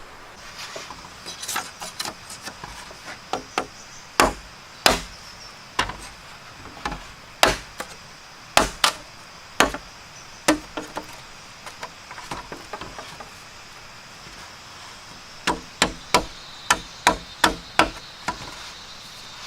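Repeated sharp strikes of a tool on wood, coming irregularly in loose groups with pauses between, then a quicker run of about two strikes a second near the end.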